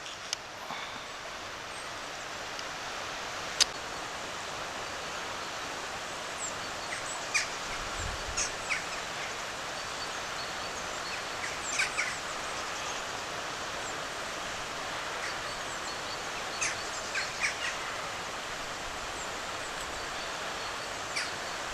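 Steady outdoor background hiss with short, high bird chirps scattered through it, a few at a time.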